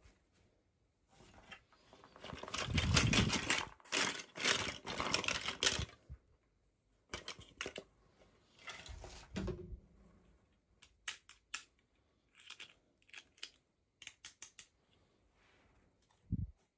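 Toy packaging being opened by hand: plastic and cardboard crinkling and tearing for a few seconds, then a run of sharp clicks and taps, and a short low thump near the end.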